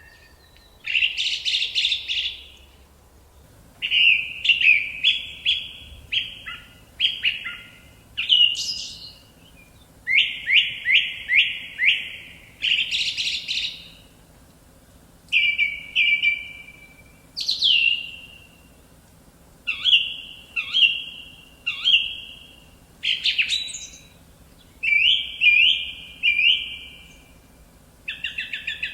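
A songbird singing in short phrases of a few quickly repeated whistled notes, a new phrase every second or two with short pauses between.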